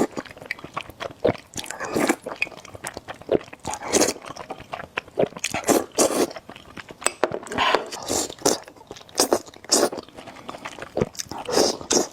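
Close-miked eating of spicy noodles: irregular bites and chewing sounds, each a short burst, with brief gaps between them.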